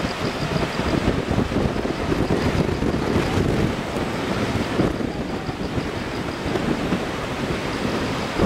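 Gusty wind buffeting the microphone over the steady rush of a river in typhoon flood.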